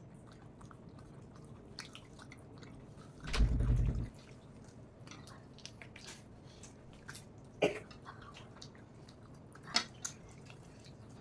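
Close-up eating sounds: a person chewing a mouthful of rice and chicken curry, with soft wet mouth sounds and a few sharp clicks. A little over three seconds in comes a loud, low, rumbling bump lasting under a second.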